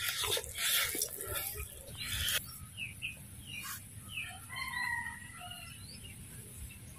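Small birds chirping, a run of short high calls in the middle of the clip, after about two seconds of rustling and handling noise at the start.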